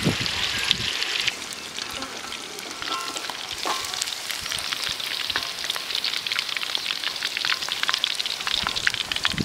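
Food frying in hot oil: a steady sizzle full of small crackles, louder for the first second or so.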